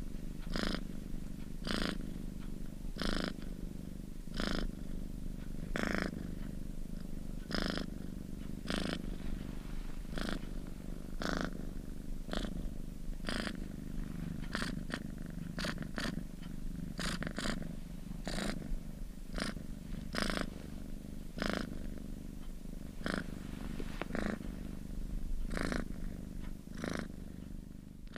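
Domestic cat purring close up: a steady low rumble with a breathy pulse about once a second.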